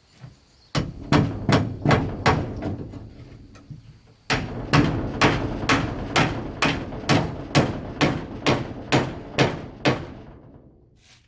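A tool striking wood over and over, with the steady rhythm of hammering, about two to three blows a second. There are two runs of blows with a short break about four seconds in, and the blows die away near the end.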